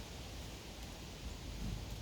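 Outdoor natural ambience: a steady, even hiss with an uneven low rumble underneath and a few faint ticks, with a brief low swell near the end.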